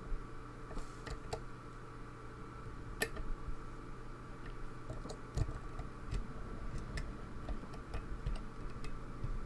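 Lock pick and tension wrench working a pin-tumbler lock, with small, irregular clicks and ticks as pins are set and picks tap inside the keyway.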